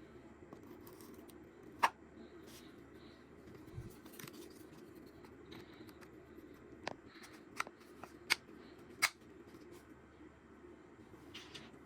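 A handful of sharp clicks and snaps, plastic pump parts being handled: one about two seconds in, then a quick run of four or five between seven and nine seconds in, over a faint steady hum.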